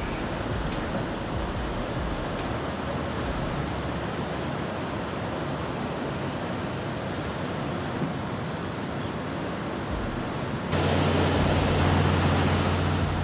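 Steady rush of surging storm floodwater. Near the end it switches abruptly to a louder rush with a steady low hum.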